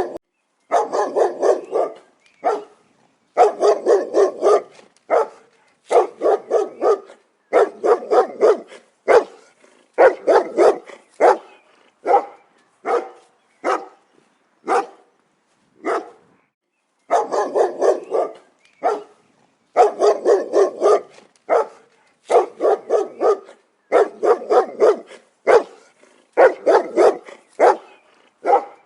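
A dog barking in quick runs of several barks each, with short silent gaps between runs; around the middle the barks come singly and more spaced out.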